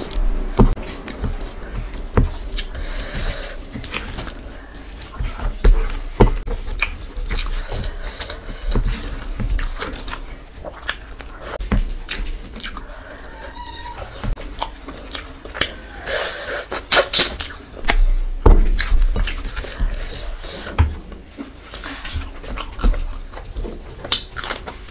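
Close-miked chewing and mouth sounds of someone eating rice and curry with her fingers, with short sharp wet clicks and smacks scattered irregularly throughout.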